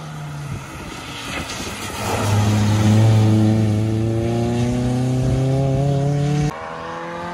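Rally car engine accelerating hard past and away, its note rising steadily through the revs, over the hiss of heavy rain. Near the end the sound cuts off abruptly to a quieter, lower engine note.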